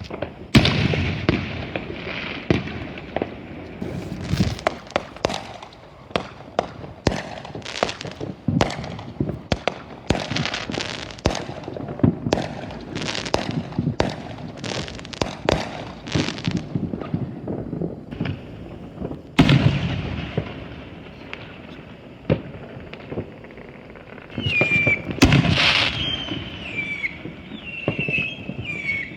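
Consumer fireworks going off: many rapid, sharp firecracker pops and crackles, with louder booms about half a second in, about two-thirds through and near the end. A warbling high whistle starts in the last few seconds.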